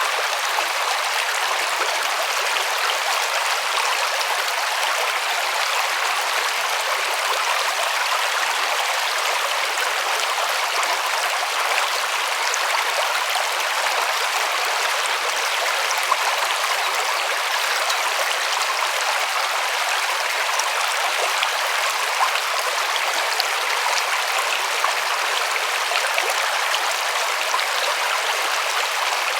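River water rushing and splashing over stones: a steady, even rush with small splashes now and then.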